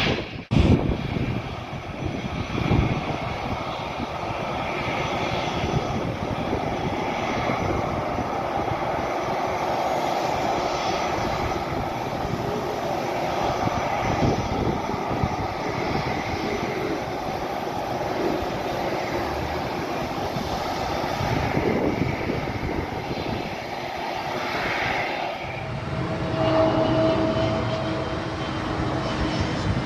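Airplane engines running with a steady roar. Near the end, a steady whine with two held tones joins in.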